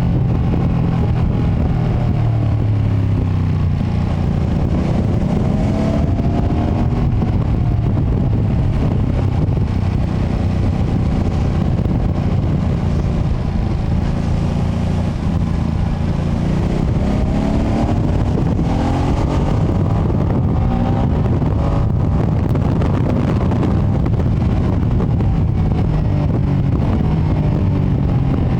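Ducati Panigale V2S V-twin engine on its stock exhaust, running steadily under way. It rises in pitch twice as the bike pulls: first about three to six seconds in, and again about seventeen to twenty seconds in.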